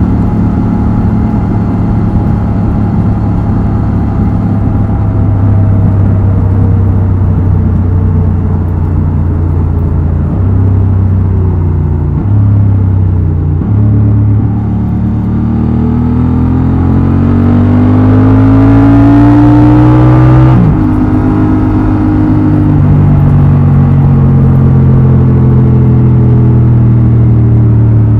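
Honda XL750 Transalp's 755 cc parallel-twin engine and exhaust under way at steady revs, with a few brief changes in pitch; then it pulls with a steadily rising pitch for about six seconds before dropping sharply at a gear change, and settles into steady running again.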